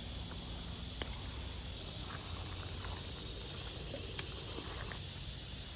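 Steady high chirring of insects, such as crickets, with two faint clicks, one about a second in and one about four seconds in.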